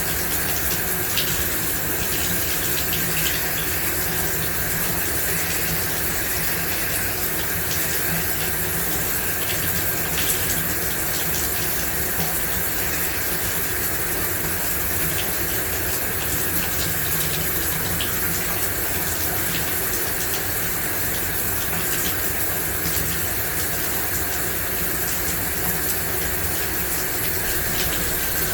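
Shower running steadily, water spraying and splashing in a constant hiss with small patters now and then.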